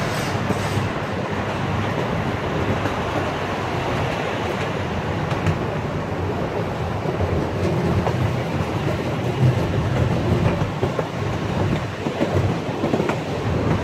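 Small-gauge amusement park train heard from aboard, rolling steadily along the track: a constant low rumble of wheels on rail, with a few faint clicks over rail joints.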